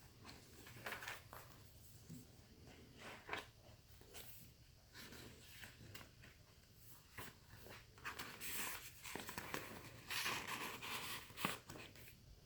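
Paper pages of a junk journal rustling and brushing as they are handled and turned, in short faint scrapes and soft taps. A few longer, louder rustles come in the second half.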